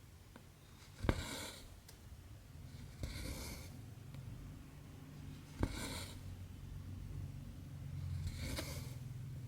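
Cotton embroidery thread pulled through cross stitch fabric, stitch after stitch: four short swishing draws a couple of seconds apart, some starting with a sharp tick as the needle passes through.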